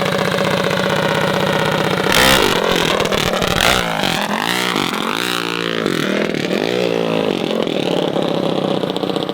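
Small mini bike engine running, then revving: a loud surge about two seconds in with the pitch climbing, followed by several quick revs that rise and fall in pitch.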